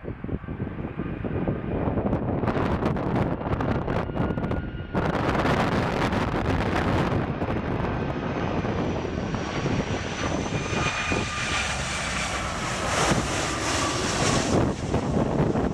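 Boeing 757 jet engines passing on landing: a steady noise carrying high whining tones that fall slightly in pitch, growing louder about five seconds in. Strong wind buffets the microphone throughout.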